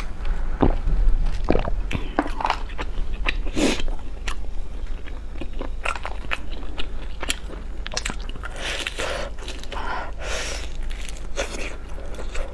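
Close-miked biting and chewing of crispy fried food: a string of sharp, crackly crunches.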